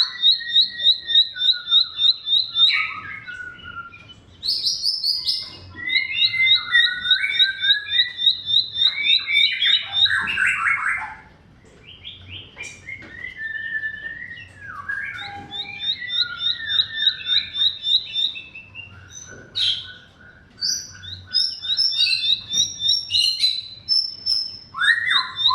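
Bar-winged prinia (ciblek) singing a varied song: fast runs of sharp repeated chips, about five a second, alternating with warbled and trilled phrases, with a brief pause partway through.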